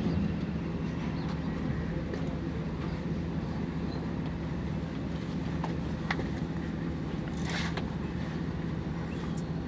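Hino M10C diesel engine idling steadily, with its tappets just set, and a few light sharp clicks over the engine note around the middle.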